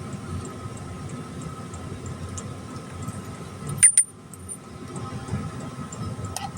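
Metal lathe running steadily while cutting steel, with two sharp metallic clinks just before four seconds in and another couple near the end.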